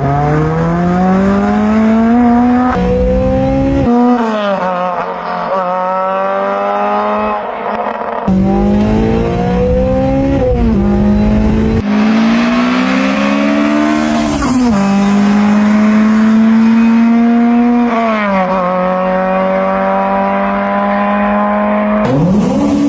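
Honda Civic Type R's 2.0-litre i-VTEC four-cylinder through a Milltek cat-back exhaust, accelerating hard. Its pitch climbs and drops back sharply several times, as at gear changes.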